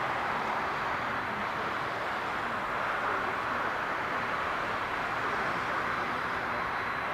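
Steady jet engine rush from a Boeing 747-400 freighter, an even, unbroken noise that neither rises nor falls.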